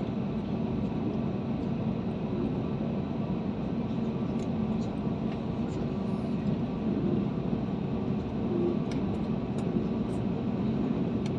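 Steady hum of an airliner cabin during taxi, the jet engines at low power before the takeoff roll, with a few faint ticks.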